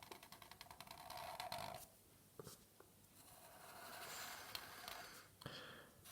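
Faint scratching of a pen or marker drawing on paper: a long scratchy stroke in the first two seconds, a short mark, then a softer longer stroke and another short mark near the end.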